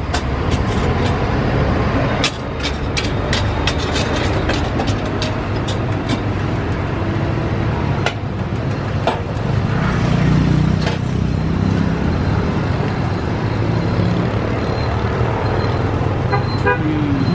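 Road traffic with engines running and horn toots, over a steady low rumble. A quick run of sharp clicks comes in the first few seconds.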